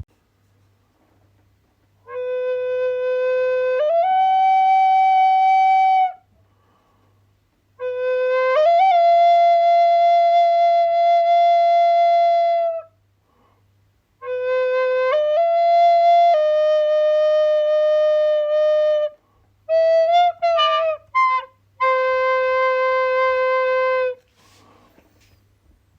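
A flute played solo: four unhurried phrases of long held notes, each phrase stepping up from a low note and holding, separated by short pauses, with a quick flurry of short notes about two-thirds of the way through.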